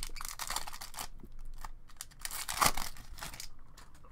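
Trading-card pack wrapper and cards being handled: crinkling and tearing of the packaging in two spells, the louder one a little past halfway.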